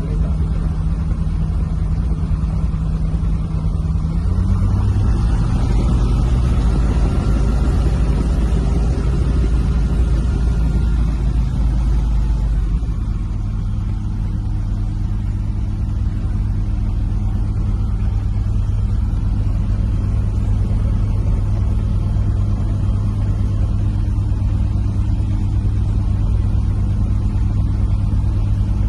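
Small airplane's piston engine running with a steady drone; it speeds up about four seconds in and settles to a new steady speed about thirteen seconds in.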